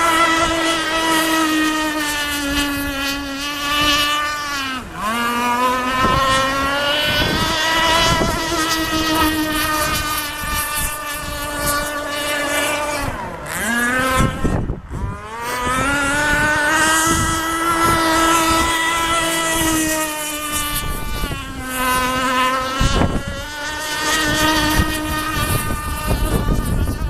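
Small two-stroke engine of a radio-controlled race boat running at high revs with a steady high whine. Several times the pitch drops as the throttle is eased and climbs back as it accelerates.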